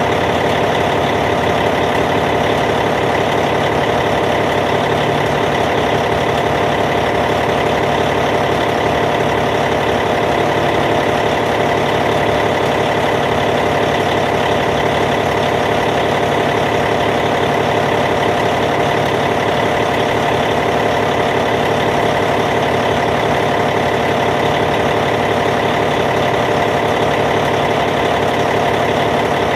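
Caterpillar C15 diesel engine of a D8T bulldozer idling steadily at an even, unchanging speed.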